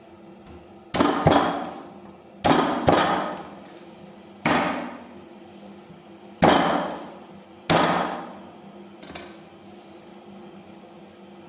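Heavy knocks: seven loud blows at uneven intervals, the first four in two quick pairs, then a fainter eighth. Each rings out for about a second before fading.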